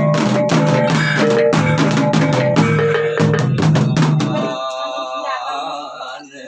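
Ceremonial percussion music: drums beaten in a fast, dense rhythm with steady pitched tones ringing over them. It stops about four and a half seconds in, and a softer, wavering voice-like sound follows.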